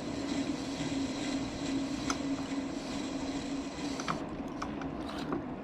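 Metal lathe running steadily with a continuous hum, with a few light clicks near the end.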